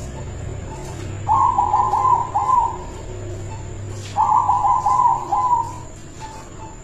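Zebra dove (perkutut) singing two phrases of its coo, each a quick run of rolling notes about a second and a half long, a little over a second apart. A faint steady hum runs underneath.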